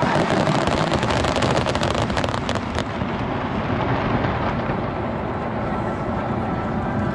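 Fireworks going off, with a dense rapid crackle for the first three seconds or so, then a continuous rumble of bursts.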